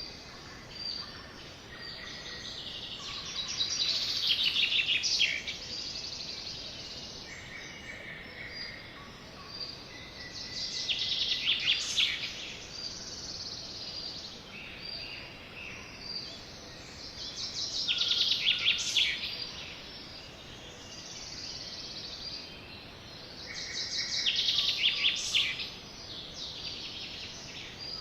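Sparrows chirping in a dense chorus that swells into loud bouts of rapid chirps four times, about every six to seven seconds, with scattered single chirps in between.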